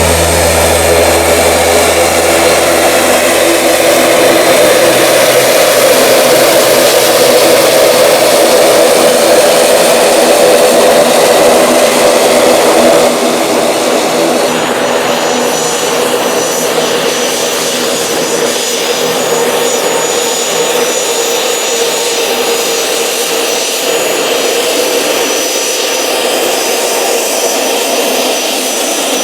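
Aircraft engines running loud and steady. About halfway through the sound eases slightly and a high whine joins it.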